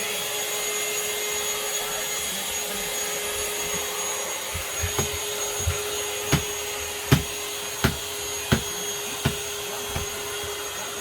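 Cordless vacuum cleaner running with a steady whine. From about halfway in, a series of sharp thumps comes roughly every 0.7 s over it.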